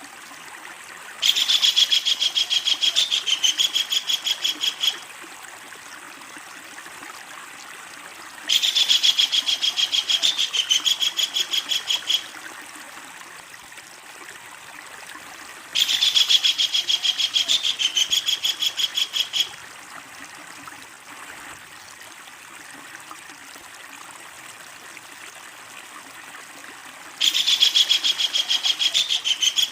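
Kingfisher (tengkek udang) calling loudly: a long, fast rattling series of high notes lasting about three and a half seconds, given four times several seconds apart, over a steady background hiss.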